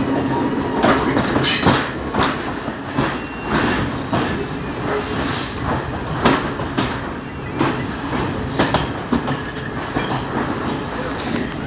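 Local passenger train running on the rails, heard on board: a steady rumble with irregular clattering knocks from the wheels and track, and brief high-pitched wheel squeals about five seconds in and again near the end.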